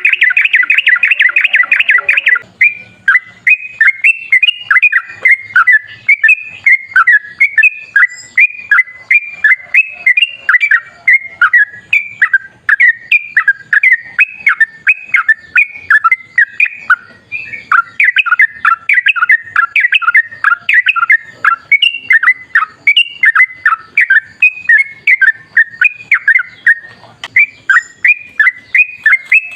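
Yellow-vented bulbul singing a long, unbroken chattering song of quick notes that keep rising and falling, opening with a fast trill about two seconds long.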